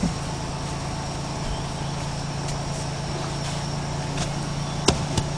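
A steady low mechanical hum, like an engine running at a constant speed, with two sharp clicks near the end.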